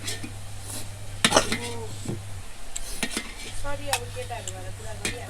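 Cutlery clinking and scraping against plates during a meal, with a few sharp clinks over a steady low hum.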